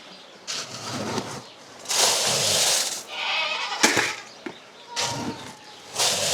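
Goats bleating in a barn pen, with several short bursts of rattling noise and a sharp click about four seconds in, the sound of grain being poured out for feeding.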